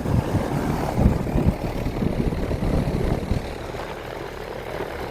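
A 2025 Rheem 1.5-ton central air conditioner's outdoor condenser running: the Broad Ocean condenser fan motor and the Copeland compressor make a steady rush of fan noise. The low rushing is uneven and louder for about the first three seconds, then eases.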